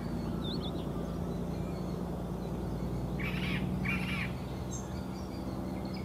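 Birds calling outdoors: a brief chirp about half a second in, then two short harsh calls about three and four seconds in, over a steady low hum.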